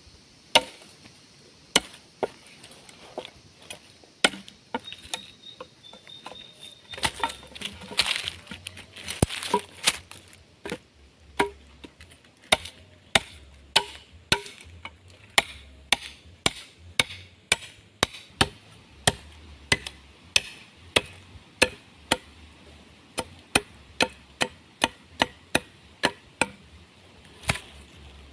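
Repeated sharp chopping strikes into wood, a few spaced-out blows at first, then a steady rhythm of about one and a half strikes a second.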